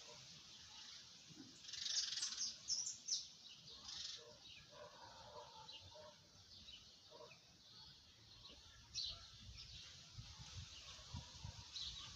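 Faint bird chirps, in a cluster about two to three seconds in and again around nine seconds in.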